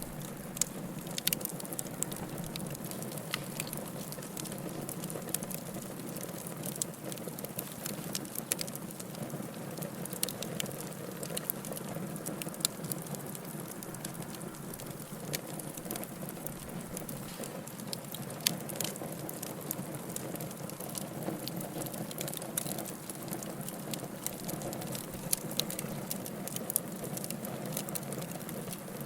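Wood fire crackling in a fireplace: a steady hiss of burning with frequent irregular sharp pops and snaps, a few of them louder.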